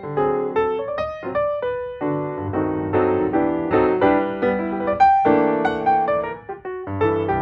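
Background piano music: a run of notes and chords, each note struck and ringing out.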